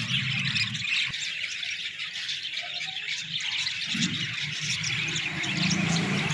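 Many small cage birds chirping and chattering together in a dense, continuous din, with a low hum underneath that drops away after the start and returns about four seconds in.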